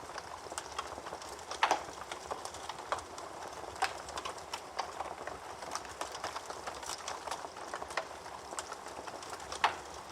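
Wood fire crackling in a fireplace: a steady soft hiss of burning with frequent irregular snaps, and two louder pops about 1.7 seconds in and near the end.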